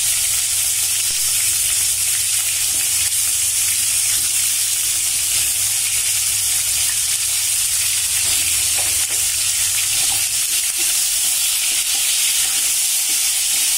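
Cauliflower florets and potato chunks sizzling steadily in hot oil in a non-stick kadhai, with a wooden spatula stirring them near the end.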